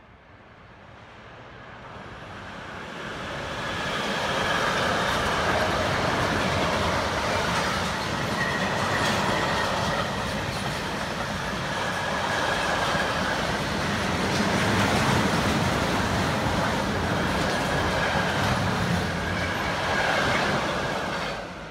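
A train running along the rails close by, its wheels clacking over the track with a faint high wheel squeal. It grows louder over the first few seconds, stays loud, and fades near the end.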